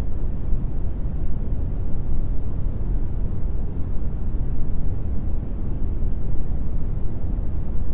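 Brown noise: a steady, deep rumbling hiss, strongest in the bass and fading toward the treble, with no change over time.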